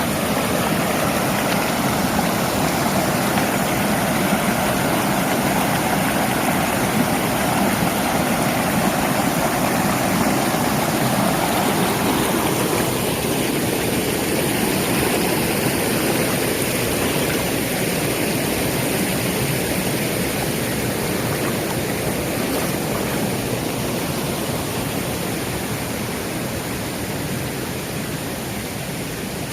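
Mountain valley stream rushing after rain: a steady, loud water noise that slowly grows fainter over the second half.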